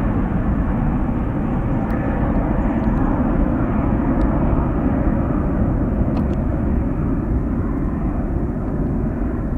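Jet engine noise from a departing Boeing 747-400, a loud steady rush that slowly fades as the aircraft moves away.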